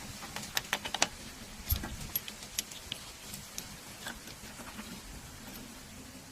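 Light clicks and taps of metal tools and parts being handled during a tractor repair, a quick cluster in the first second and scattered single taps after.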